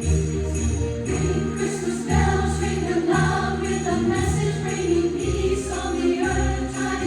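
Christmas music: jingle bells shaken in a steady beat over sustained accompaniment, with a choir singing from about a second in.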